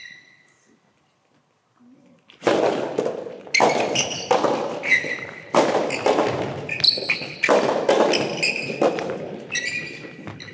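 Soft tennis rally on an indoor court: sharp racket strikes and ball bounces, echoing in the hall, come every half second to a second, mixed with high squeaks of shoes on the floor. The rally starts about two and a half seconds in, after a short squeak and a quiet pause.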